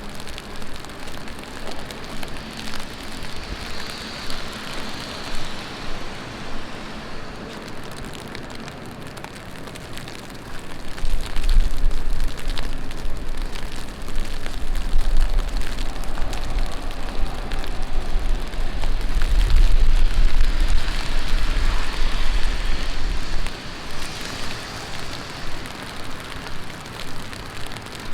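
Heavy rain falling and splashing on a city street. About eleven seconds in, a deep low rumble comes up under the rain and cuts off about twelve seconds later.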